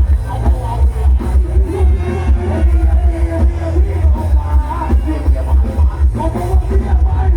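Loud music with a heavy bass beat played through a rot hae, a Thai parade sound-system truck, with a melody line above the bass.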